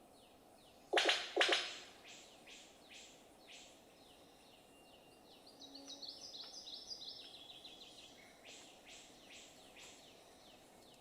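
Several wild birds calling: two loud, harsh calls about a second in, short down-slurred notes repeated about twice a second, and a quick run of notes stepping down in pitch in the middle.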